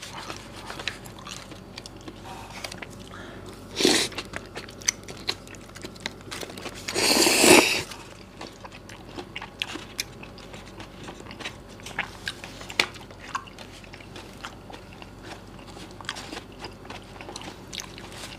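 Close-up sounds of eating a vegetable salad in peanut sauce: chewing and crunching, with a plastic spoon scraping at the paper wrapping. A short burst of noise comes about four seconds in, and a louder one lasting under a second about seven seconds in.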